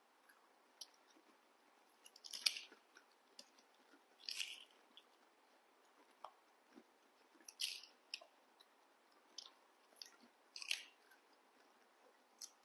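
People biting into and chewing firm June apple fruit: four louder crunches a few seconds apart, with faint chewing clicks between them.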